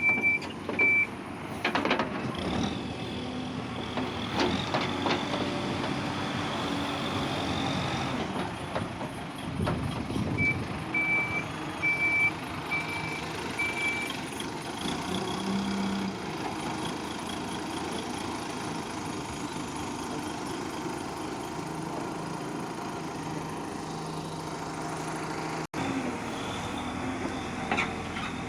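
JCB backhoe loader's diesel engine running steadily while it digs, with a reversing alarm beeping about twice a second at the start and again for a few seconds around ten seconds in.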